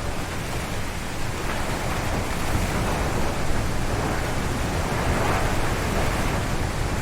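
Strong wind gusting through a forest, a steady loud rush of air in the trees with deep rumbling, swelling slightly in the middle.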